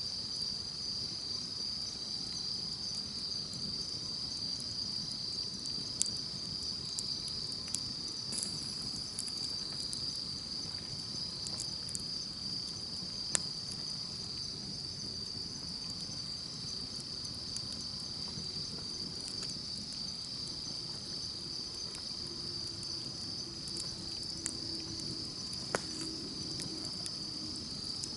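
Campfire burning with a low rustle and occasional sharp crackling pops, over a steady high-pitched chorus of insects. A faint low steady hum comes in near the end.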